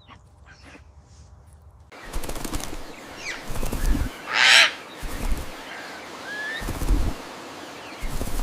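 Bird sounds: a loud harsh call about halfway through and a few short chirps, among repeated low thumps. It is faint for the first two seconds.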